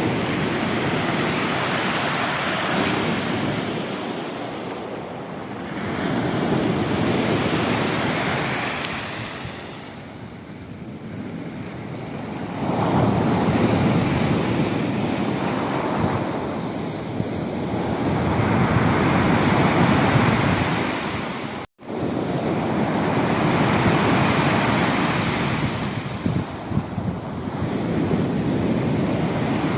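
Rough sea: waves breaking and washing in surges that swell and ebb about every five seconds. The sound drops out for an instant about two-thirds of the way through.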